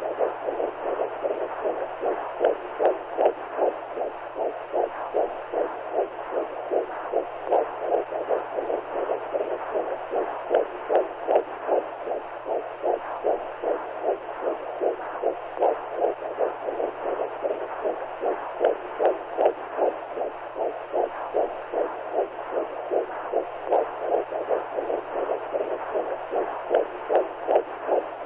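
Womb sound for soothing newborns: a rhythmic whooshing pulse like a heartbeat heard through the body, about two beats a second, over a steady muffled hiss.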